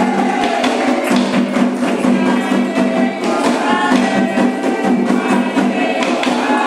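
Live ritual percussion music of a Candomblé ceremony: dense, fast, steady strokes on drums and rattling percussion.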